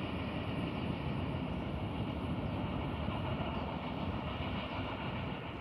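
Autorack freight train rolling away down the track: a steady rumble of wheels on rail, with a faint steady high ring over it.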